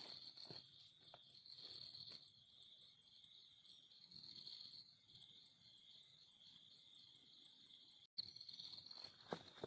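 Faint, steady high-pitched chirring of insects such as crickets, with a brief cut-out about eight seconds in and a few soft clicks near the start and end.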